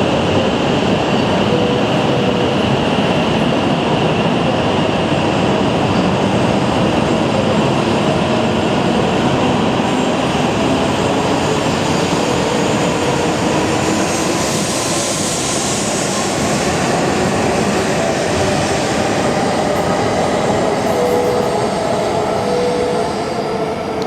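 Shinkansen train running along a station platform with a steady rail rumble. Brief high tones come and go, and there is a short hiss about fifteen seconds in.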